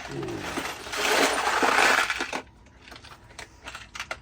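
Loose screws and small metal hardware rattling and clinking as a hand rummages through a screw bucket, loudest for about a second and a half, then a few light clicks.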